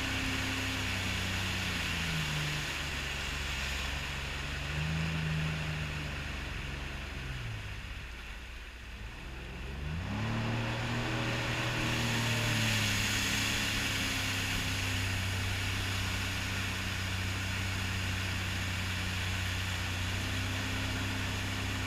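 Sea-Doo personal watercraft engine running at speed over a steady rush of water and wind. About eight seconds in the engine eases off and its pitch drops, then it is throttled back up about two seconds later and holds steady.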